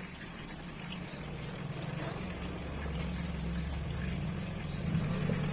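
A low, steady engine hum that slowly grows louder.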